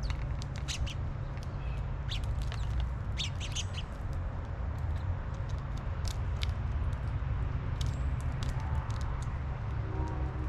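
Birds chirping: many short, quick calls scattered irregularly, over a steady low rumble.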